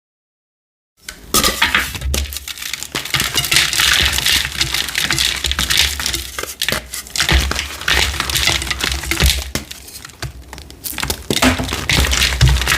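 Gym chalk discs being crushed and crumbled, a dense run of gritty, crunchy crackles and snaps with dull low thumps, starting about a second in.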